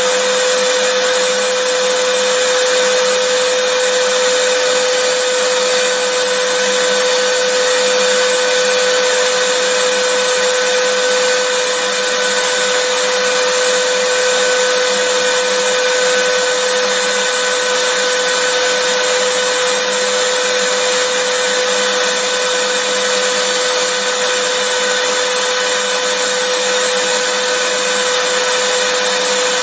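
Vacuum cleaner running steadily: an even rushing noise with a constant whine in it, no change in speed.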